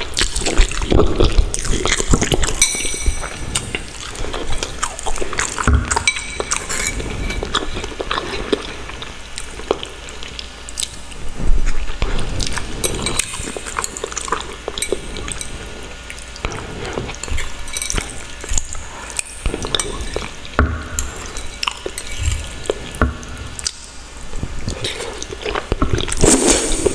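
Close-miked eating sounds: wet slurping and chewing of instant ramen noodles, with irregular clicks of a utensil against the bowl.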